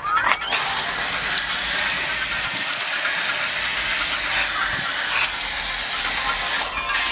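Coil gun spraying foaming coil cleaner onto a condenser coil: a steady spray hiss that breaks off briefly near the end.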